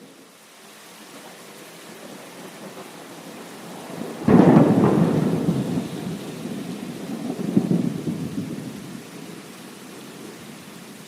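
Steady rain with a thunderclap about four seconds in that rumbles on, swells once more and dies away.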